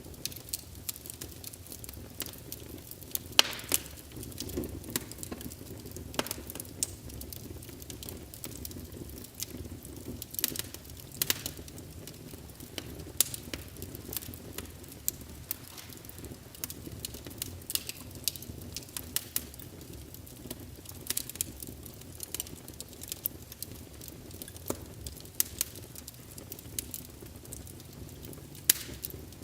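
Burning logs in a fireplace, crackling and popping irregularly over a low, steady rumble of the flames. The loudest pop comes about three and a half seconds in.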